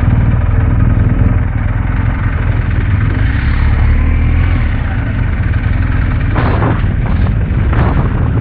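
BMW R1250GS boxer-twin engine running under way, a steady low drone with a haze of wind and road noise over it.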